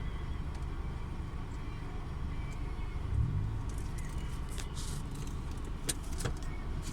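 Steady low rumble of a car heard from inside the cabin, with a few sharp clicks near the end.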